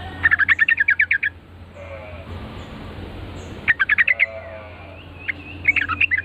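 Yellow-vented bulbul (trucukan) giving three bursts of fast, chattering notes. The first runs about a second, then a shorter burst and a looser one near the end. A steady low hum lies underneath.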